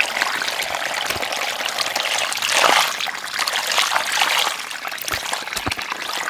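Water trickling and pouring, swelling briefly about two and a half seconds in.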